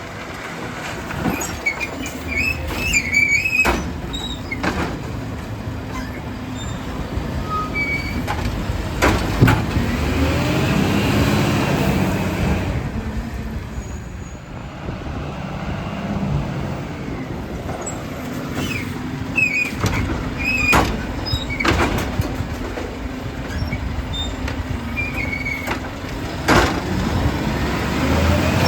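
Garbage truck's diesel engine running steadily, rising in pitch and falling back about ten seconds in, with high squeaks and a dozen or so sharp metallic bangs along the way.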